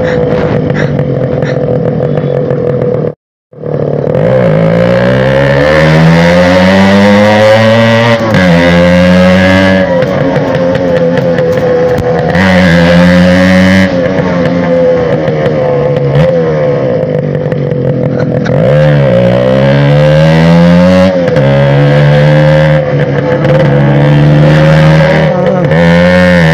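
TVS Max 100R motorcycle's loud single-cylinder two-stroke engine running hard. Its pitch climbs steadily and drops back again several times, as when it is accelerated through the gears. The sound cuts out completely for a moment about three seconds in.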